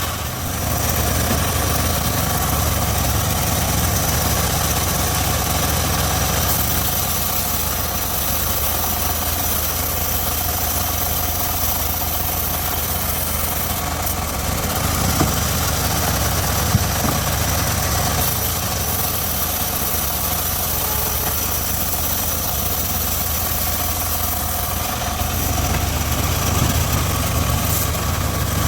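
Engine of a homemade circular sawmill running steadily, a low drone with steady higher tones above it, and two short knocks about halfway through.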